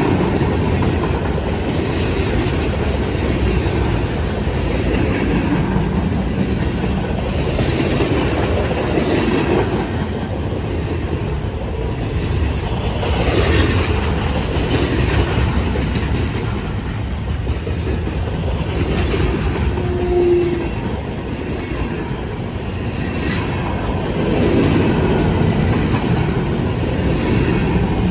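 A CSX mixed-freight manifest train rolling past: a steady rumble of freight cars, with wheels clacking over the rail joints.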